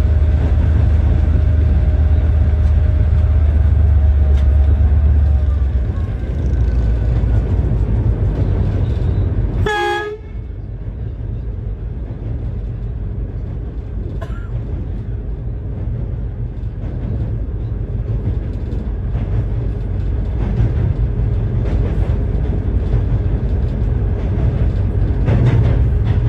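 Train crossing a bridge: a steady heavy rumble of the wheels and cars, loudest in the first six seconds and easing a little after about ten seconds. A brief tone sounds about ten seconds in.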